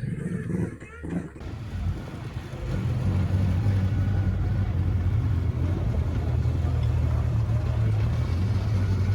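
Rally car engine running at steady revs: a low, even drone that grows louder over the first two or three seconds and then holds.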